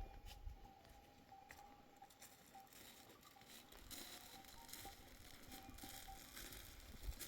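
Near silence: faint scattered ticks and rustles over a faint steady high tone that fades out near the end.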